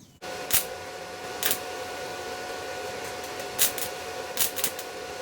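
Stick welding with a 7018 electrode: the arc strikes suddenly just after the start and then burns with a steady hiss, broken by several sharp pops.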